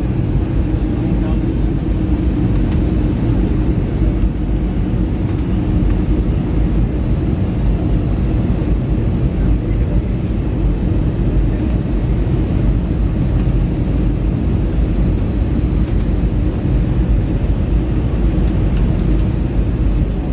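Steady cabin noise of an Airbus A321neo in flight, engines and airflow, with a steady hum and little change throughout.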